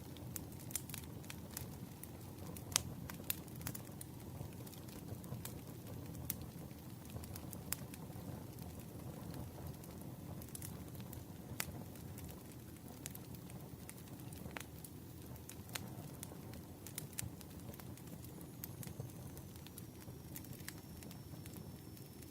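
Campfire burning with a steady low rush and irregular sharp crackles and pops of the wood. Near the end a faint high whistle slides down and holds.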